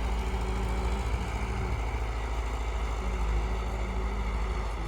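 Tractor engine running steadily, a low even engine sound with a fast regular pulse.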